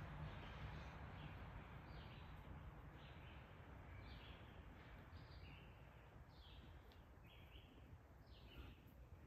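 Faint bird calls: short chirps repeated every second or so, each dropping in pitch, over a low outdoor rumble.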